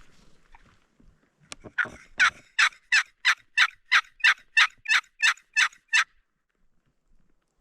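A series of about a dozen loud turkey yelps, evenly spaced at roughly three a second, stopping about six seconds in.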